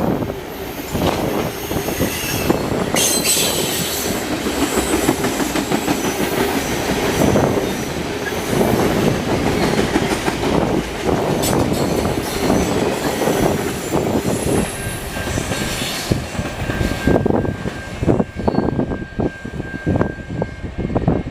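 Freight cars rolling past on steel wheels, with a rhythmic clatter of wheels over rail joints and a steady rumble. A thin high wheel squeal sounds now and then, and holds steady through the last third.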